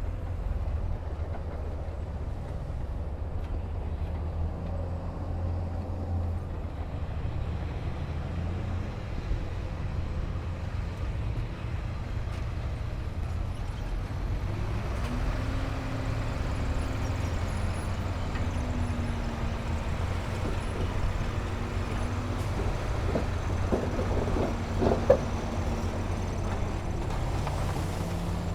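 Heavy diesel earthmoving machinery running with a steady low engine rumble. From about fifteen seconds in a higher engine tone rises and holds for several seconds. Near the end come a few sharp knocks, the loudest about twenty-five seconds in.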